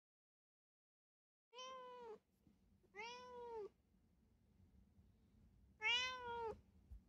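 Domestic cat meowing three times: short, arched meows, the first about a second and a half in and the last and loudest near the end.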